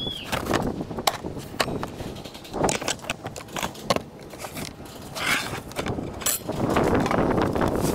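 Wooden boards being handled and shifted, giving scattered sharp knocks and clicks, with a denser rustling clatter near the end.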